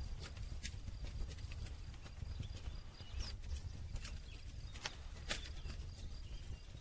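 Campfire burning: sharp pops and crackles from the burning wood at irregular intervals, over a low steady rumble.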